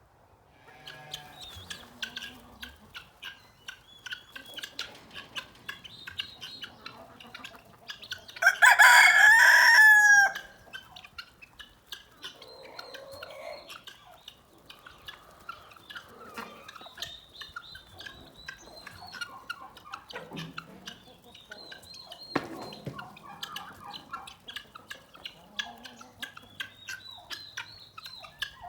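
A rooster crows once, loudly, about eight seconds in, in one call of about two seconds. Chickens cluck and small birds chirp throughout.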